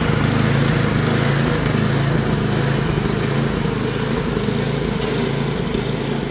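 Yard Machines snowblower's small single-cylinder engine running steadily at a constant speed.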